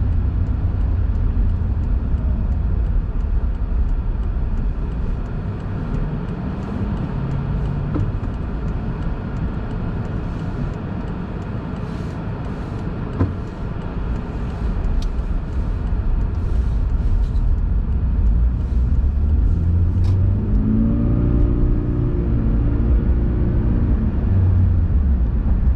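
Car driving on the road: a steady low rumble of engine and tyres, with the engine note rising as the car accelerates about 21 seconds in.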